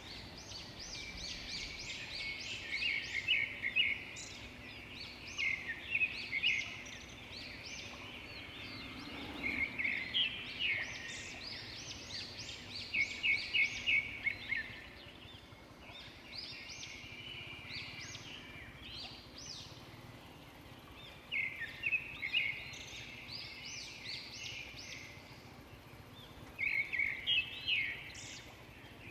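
Birds calling in the roadside scrub: repeated bouts of quick, high chirps, each bout lasting a second or two and coming every few seconds.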